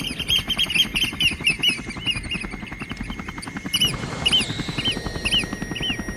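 Eurasian oystercatchers giving repeated piping alarm calls, several a second at first and spacing out after the middle, while mobbing a drone. Under the calls runs a fast, low chopping mechanical sound like a rotor.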